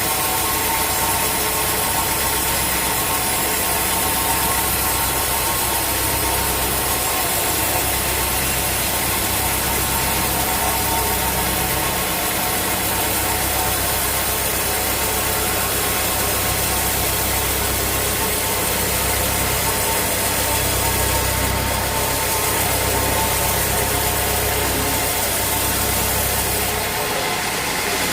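Sawmill machinery running steadily: a continuous engine-driven drone with a constant hum. The low end drops out briefly near the end.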